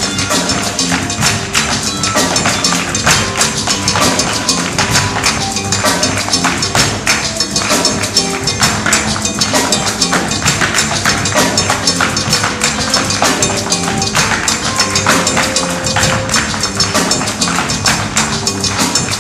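Music with a dense stream of rapid, sharp percussive taps from dance footwork, over pitched instrumental accompaniment.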